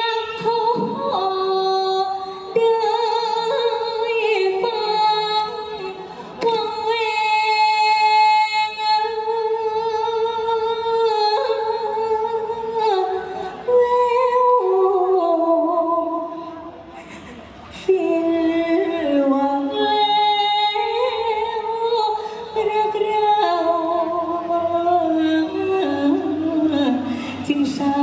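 A woman singing a sad likay song in Thai folk-opera style, with long held notes that waver and slide from one pitch to the next, and short pauses for breath between phrases.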